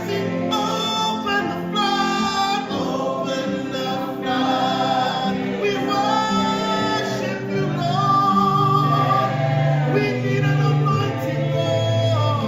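Live gospel worship music: a group of voices singing together in choir style over sustained bass and keyboard-like accompaniment.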